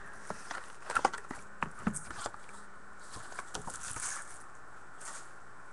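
Trading card packs and cards being handled on a table: scattered light clicks and rustles, bunched in the first two seconds and again about three to five seconds in.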